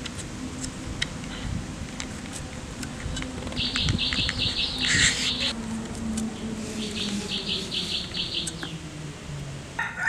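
Outdoor ambience: a bird gives two bursts of rapid, evenly repeated high chirps, over the low buzz of a flying insect that slowly sinks in pitch. Near the end a rooster begins to crow.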